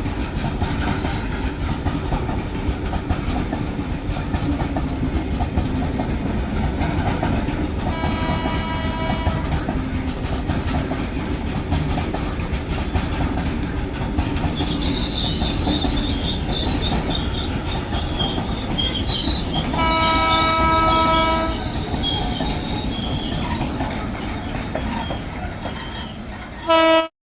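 Indian Railways train passing close by: a steady rumble with rapid wheel clatter over the rail joints. The locomotive horn sounds about a third of the way in, again more loudly about two-thirds in, and in a short blast at the very end that cuts off sharply. A high wheel squeal runs for a couple of seconds near the middle.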